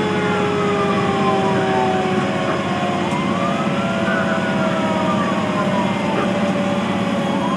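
Fire engine's wail siren slowly rising and falling, about once every three and a half seconds, over the steady noise of the truck's engine and road.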